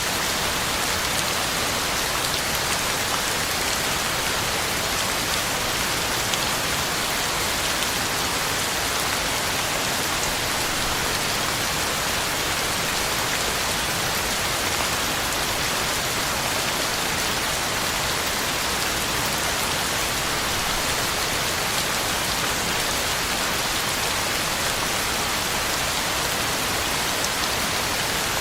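Heavy rain falling steadily, drops hitting the ground and leaves in a constant even hiss with faint individual drop ticks.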